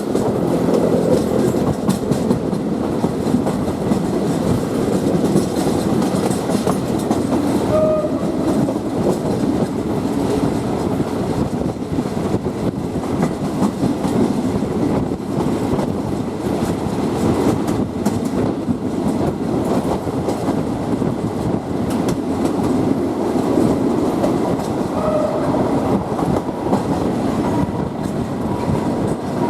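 Passenger train running along the track, heard from on board: a steady rumble with the wheels clicking over rail joints. Brief high tones sound about a quarter of the way in and again near the end.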